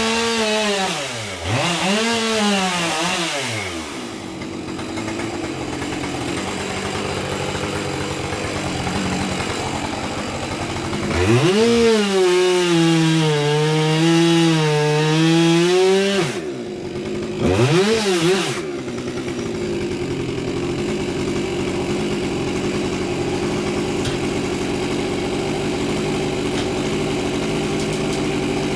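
Chainsaw engine revved in two quick blips, settling to idle, then held at high revs for about five seconds with a slight wavering. After one more short blip it idles steadily.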